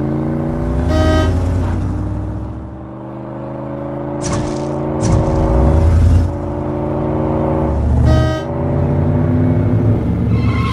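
Cartoon toy-car engine sound effects: a steady engine hum that slowly rises in pitch, with a low rumble. Two short pitched tones come about a second in and again near eight seconds in, and two brief hissing whooshes come around four and five seconds.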